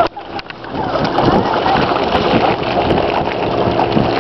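Water splashing and churning as a crowd of carp thrash at the surface, feeding on thrown popcorn. The splashing grows louder about a second in and keeps going as a dense, continuous patter.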